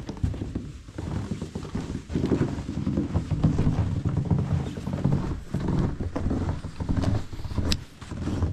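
Footsteps crunching through snow, an irregular run of steps with crackly rustling.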